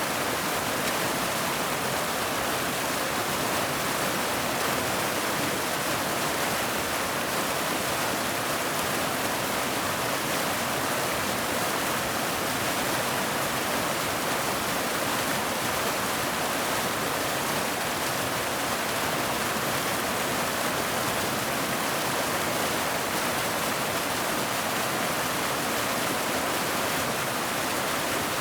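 Waterfall: a steady rushing of falling water with no breaks or changes.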